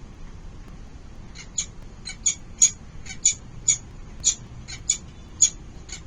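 Falcon chicks calling in the nest: a series of short, high, sharp calls, about two a second, starting after a second or so, typical of chicks begging for food at a feeding.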